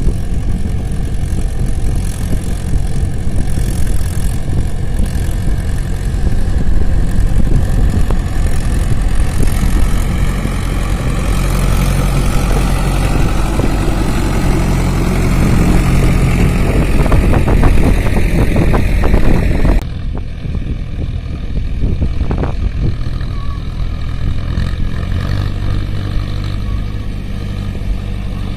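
Tractor engines running loudly. One engine revs up with a steadily rising pitch over several seconds. A sudden cut near the middle switches to steadier engine running.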